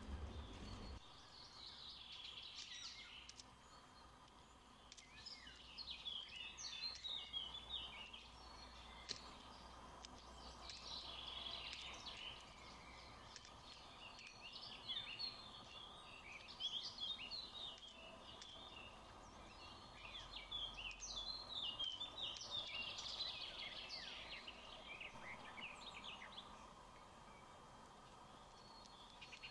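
Birds chirping and calling faintly outdoors, in bursts of quick high notes every few seconds.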